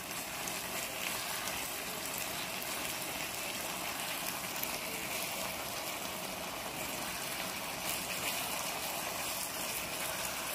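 Spicy stir-fried pork with kimchi in a wet red-pepper-paste sauce, sizzling and bubbling steadily in a frying pan over high heat while it is stirred with chopsticks.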